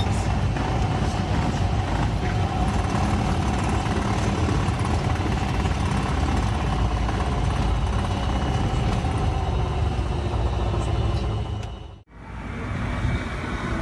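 Steady engine and airflow noise inside an aircraft cockpit, with a faint steady whine. It cuts off abruptly near the end, and a different steady noise follows.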